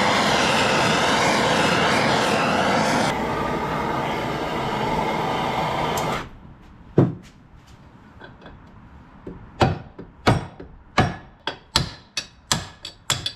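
A gas torch hissing steadily as it heats the crankcase, shut off abruptly about six seconds in; then about ten sharp hammer blows, coming faster toward the end, drive the worn crankshaft bush out of the case.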